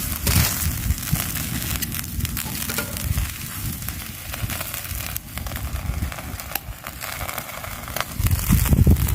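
Wood fire in a fire pit crackling, with many small pops and snaps over a steady hiss, and a low rumble that grows louder near the end.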